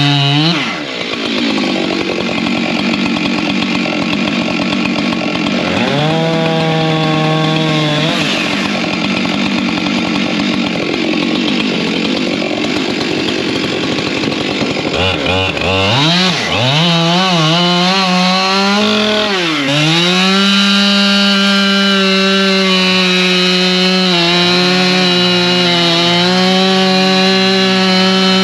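Two-stroke chainsaw cutting firewood: the engine's pitch drops under load during two long cuts, climbs back as it revs freely between them, rises and falls a few times, then holds at steady high revs for the last third.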